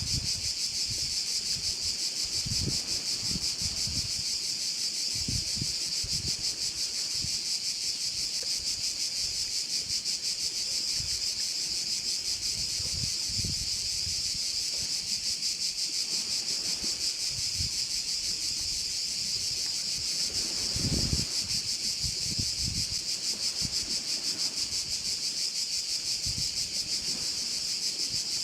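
Dense chorus of singing insects: a steady, high-pitched buzz that never lets up. Low gusts of wind rumble on the microphone now and then, strongest about three quarters of the way through.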